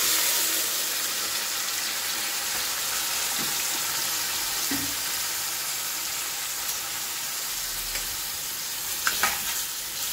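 Masala-marinated chicken pieces sizzling in hot oil in a stainless steel kadai: a steady frying hiss that starts suddenly as the chicken goes in and eases slightly, with a few sharp clicks near the end.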